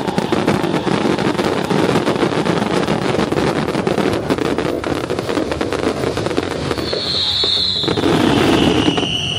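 Fireworks going off in a dense, continuous crackle of rapid pops, with a brief high steady tone about seven seconds in.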